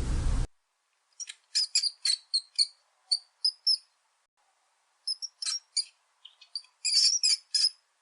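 Burung beo (a talking cage bird) giving quick series of short, high chirps, in two bursts a little over a second apart.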